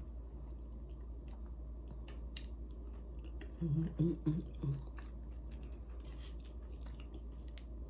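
Close-up chewing of steamed broccoli: wet, crisp mouth clicks and crunches going on throughout. A few short hummed "mm" sounds come from the eater about four seconds in.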